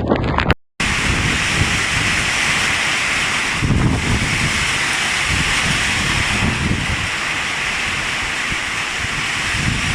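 Steady rush of flowing floodwater, with wind gusting on the microphone. A brief gap of silence under a second in, then the rushing runs on unbroken.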